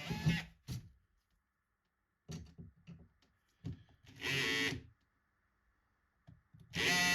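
Power drill running down and stopping, a few light clicks and knocks of handling, a short half-second burst of the drill about four seconds in, then the drill spinning up again near the end.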